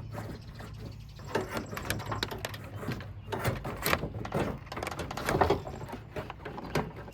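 Irregular clanks, knocks and scrapes of hand tools and metal parts being worked in a car's engine bay, over a faint steady low hum.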